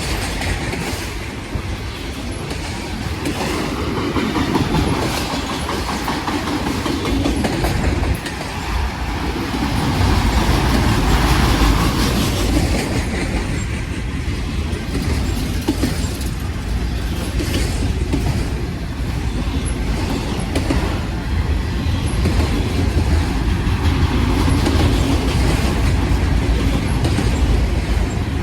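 Long freight train of manifest cars and auto racks rolling past: a steady heavy rumble with wheels clacking over the rail joints.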